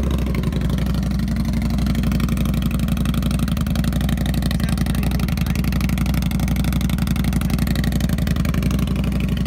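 Indian Scout motorcycle's liquid-cooled V-twin engine idling steadily just after being started, with an even, rapid pulse that holds level.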